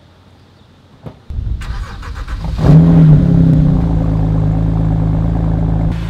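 A thump, then a BMW Z4 coupe's straight-six is cranked over and catches with a quick rev flare, the loudest moment, before settling into a steady idle. Near the end the engine note drops a little as the car begins to move off.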